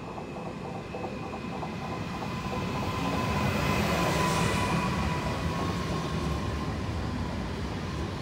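Electric multiple unit running past close along the platform: wheels rumbling on the track, growing louder to a peak about four seconds in, with a steady high whine over the rumble.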